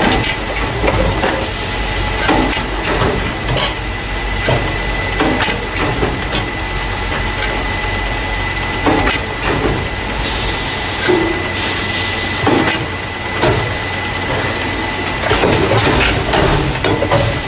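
Carton caser in operation, moving paper juice and milk cartons into plastic crates: continual irregular clattering and knocks over a steady low machine drone, with a thin steady high whine. A hiss of about a second and a half comes a little past the middle.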